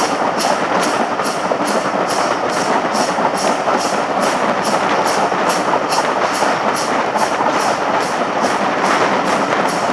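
Heritage steam-hauled passenger train running at speed, heard from an open carriage window: a steady loud rush of wheel and wind noise with a light regular beat about two to three times a second.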